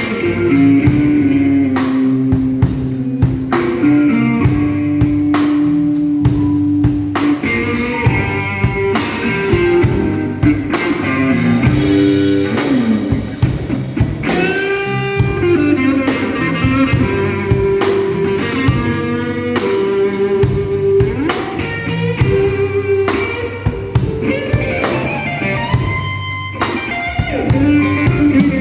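Electric guitar playing a slow blues with string bends, over bass and a drum kit.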